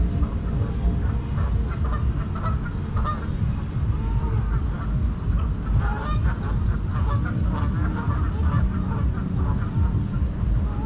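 A flock of birds giving many short, repeated calls, denser in the middle, over a steady low rumble.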